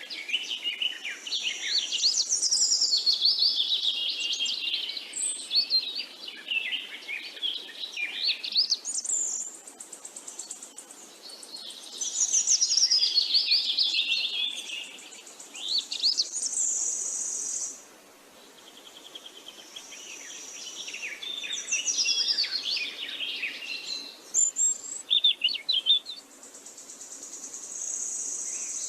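Birds singing: bursts of fast, varied chirping song with quick falling trills, alternating with high, thin buzzy notes held for a second or two.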